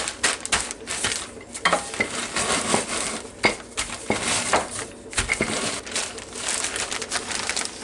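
Crispy fried onions being crushed inside a plastic zip-top bag, with irregular crackling and crinkling of the plastic and a few light knocks against the counter.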